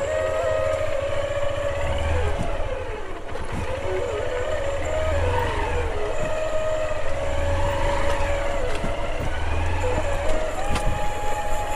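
Motorcycle engine running, its pitch rising and falling every few seconds as the throttle is opened and closed.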